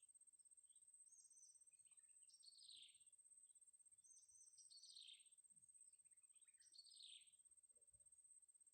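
Faint bird calls: four high, thin calls that sweep downward, over a steady faint high-pitched whine.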